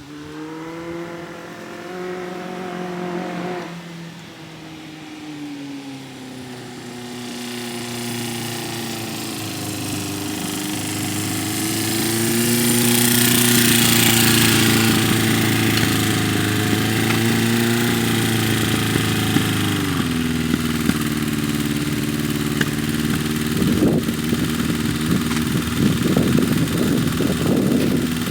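1978 Honda CB550K's inline-four engine running under way, its pitch rising and falling with the throttle, loudest about halfway through and easing off about 20 seconds in. The owner judges the bike to be running poorly, with a rough idle and a stumble between 4,000 and 5,000 rpm as if it were running out of fuel.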